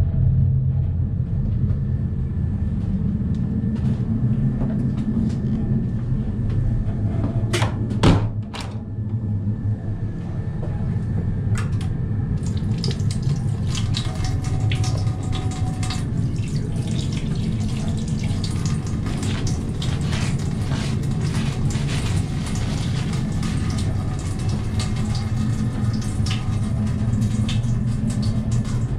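DB ICE 1 high-speed train running, a steady low rumble heard from inside the carriage, with a few sharp clicks about eight seconds in and a crackle of small ticks through the second half.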